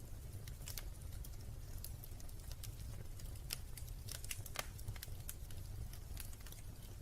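Wood fire crackling in a fireplace: irregular sharp pops and ticks, a few louder than the rest, over a low steady rumble.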